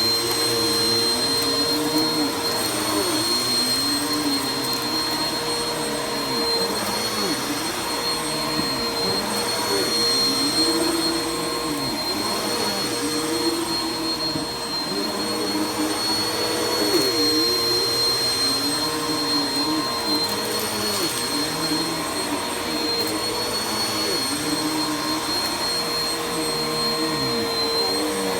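Vacuum cleaner running steadily, with a high constant whine and a lower motor note that rises and falls every couple of seconds as it is worked over the floor.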